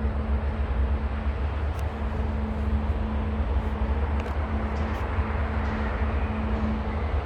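A train's locomotive running steadily, a deep rumble with a constant hum and a few faint clicks.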